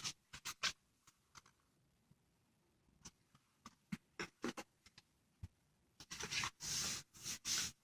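Faint handling of a book: a few small scattered clicks and taps, then paper rustling for the last couple of seconds as a page is turned.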